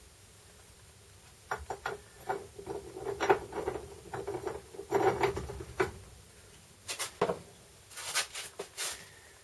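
Irregular clicks, knocks and clatter in clusters, busiest in the first half, with a short gap before a last few sharp clicks near the end.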